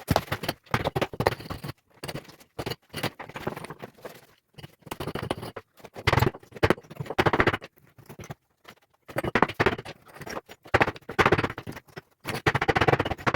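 Hand tools scraping and knocking at broken concrete screed and debris in a floor cut-out, in irregular bursts with short breaks.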